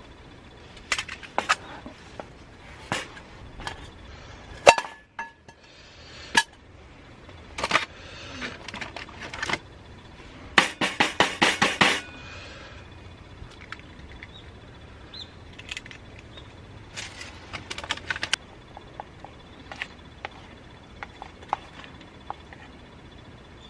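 Scattered sharp clicks, knocks and clinks of hard objects being handled, with a quick run of about ten clicks near the middle.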